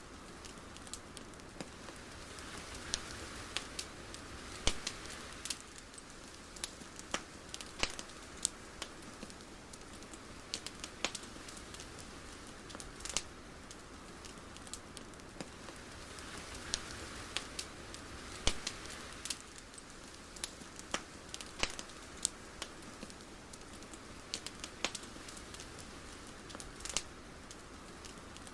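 A soft, steady hiss with sparse, irregular sharp crackles and clicks, one or two a second.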